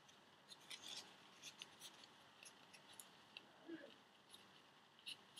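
Faint, scattered crinkles and small ticks of a sheet of origami paper being handled and creased by hand.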